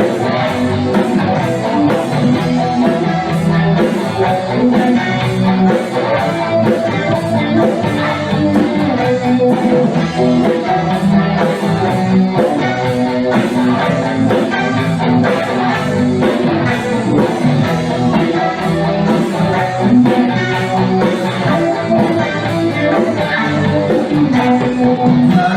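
Rock band playing an instrumental passage: electric guitar and bass over a steady beat.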